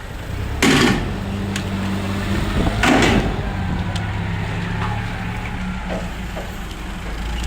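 A motor humming steadily, with two loud, short clattering noises about one second in and three seconds in.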